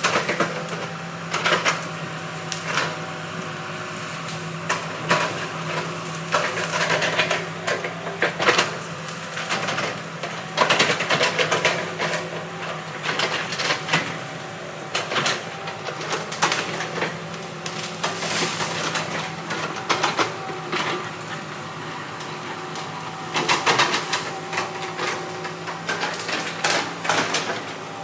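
Heavy earthmoving machine's diesel engine running steadily, with irregular clanks and knocks over it.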